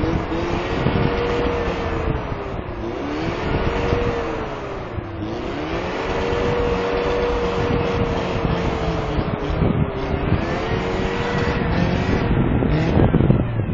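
Toyota Tacoma pickup's engine revving hard while its tyres spin in deep snow, stuck in a ditch. The engine pitch is held high, drops away and climbs back a few times, over a steady noise of wheels churning snow and wind on the microphone.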